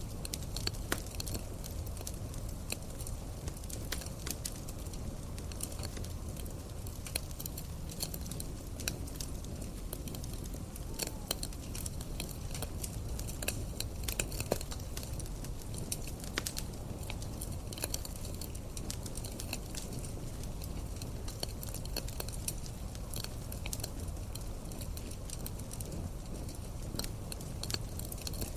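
Campfire crackling: irregular sharp pops and snaps from burning wood over a steady low rumble of flame.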